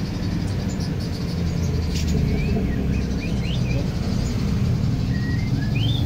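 Small bird chirping: a run of short, thin, rising chirps starting about two seconds in, over a steady low background rumble.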